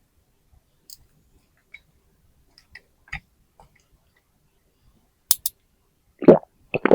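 Light, scattered clicks and taps of small plastic toy parts being handled, with two sharper clicks about five seconds in. Two short pitched sounds come near the end.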